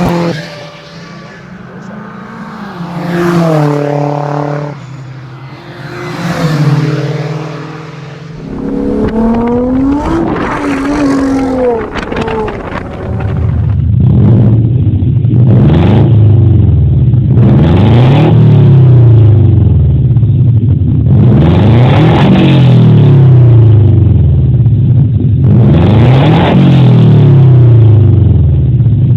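Car engines revving through loud exhausts, heard in short recordings one after another. First come a few single revs that rise and fall. From about 13 seconds in comes a run of hard revs, each rising and dropping back roughly every four seconds; this is the loudest part.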